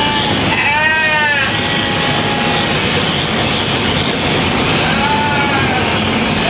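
Sheep bleating twice, a strong call about a second in and a fainter one around five seconds, over the steady buzz of electric sheep-shearing clippers.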